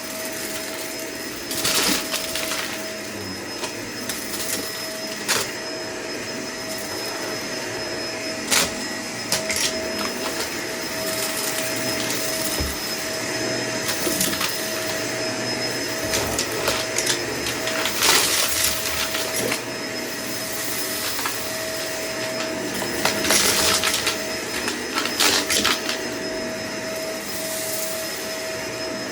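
Vacuum cleaner running steadily with a constant whine, interrupted by scattered crackles and rattles as debris is sucked up, loudest about two-thirds of the way through.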